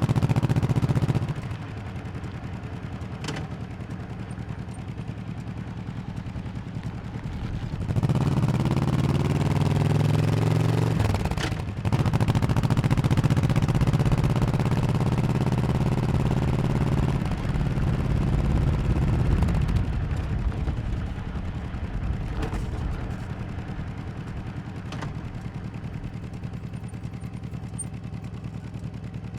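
Honda 1100cc V-twin motorcycle engine on the move. It runs quieter for several seconds, then accelerates with a rising pitch about eight seconds in, dips briefly near the middle, and pulls hard again. It then eases off to a quieter, steady run for the last third.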